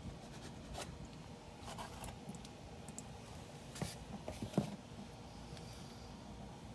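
Faint handling sounds: light scrapes and small clicks, with a louder knock about two-thirds of the way through.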